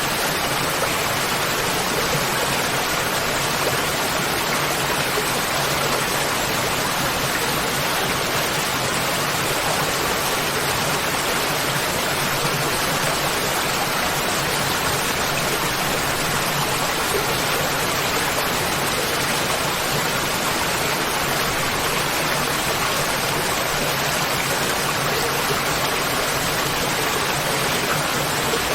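Waterfall: water pouring and splashing in a steady, loud rush with no change.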